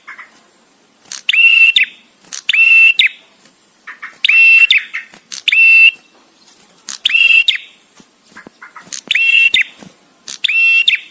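Male prenjak tamu, a prinia, calling in short, rapid stuttering phrases about half a second long, high-pitched and loud, repeated about eight times with brief pauses between them.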